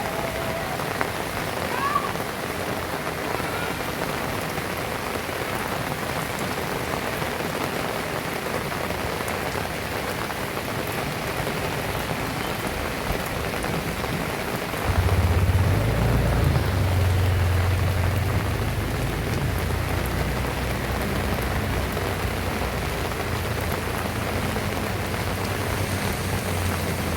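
Heavy rain falling steadily. About halfway through, the low, steady hum of a motor vehicle's engine comes in and carries on.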